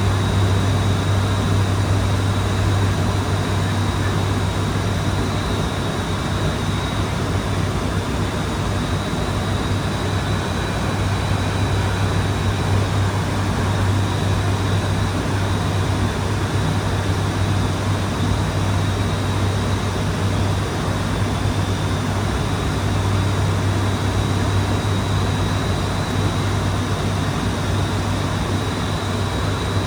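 ATR 72-600's twin turboprop engines and propellers running steadily, a loud low propeller hum with a faint high whine over it.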